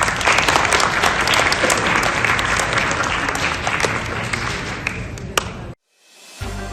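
Audience applauding with many hands clapping, loud at first and easing off, cut off suddenly about six seconds in; music fades in near the end.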